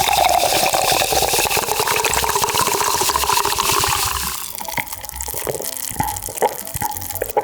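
Liquid pouring steadily into a container, its pitch slowly rising as the container fills, for about four and a half seconds. Then a few soft clicks and small liquid sounds.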